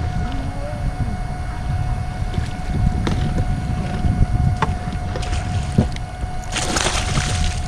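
Water splashing from a big hooked largemouth bass thrashing, with a short loud burst of splashing near the end, over a low rumble of wind on the microphone and a few sharp knocks.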